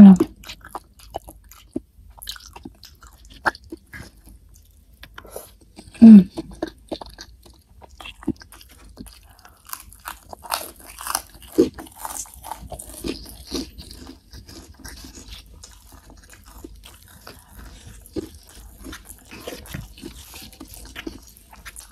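Close-up mukbang eating sounds of a person chewing boneless chicken feet cooked in sweet soy sauce, with rice, eaten by hand: steady wet chewing and many small mouth clicks. Two brief louder mouth sounds come at the start and about six seconds in.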